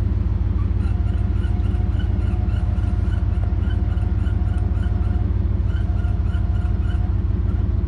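Truck engine idling steadily, with a high electronic beeping over it, about three pulses a second, that starts about a second in, breaks off briefly around five seconds and stops near the end.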